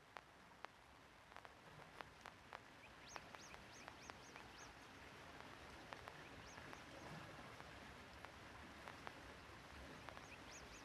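Faint bird chirps, short arching calls in quick runs of four or five, over a low hiss with scattered sharp clicks.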